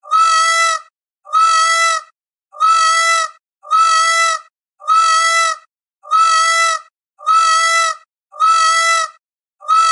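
An animal's call: a steady, pitched cry lasting under a second, repeated the same way about once a second.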